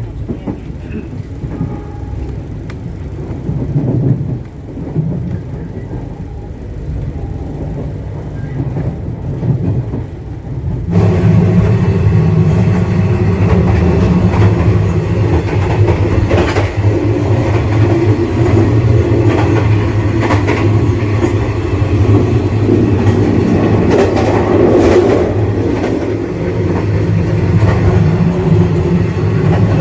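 Passenger train running on the rails at speed, a steady rumble with a low hum. About 11 seconds in the noise turns suddenly louder and brighter, as though no longer muffled.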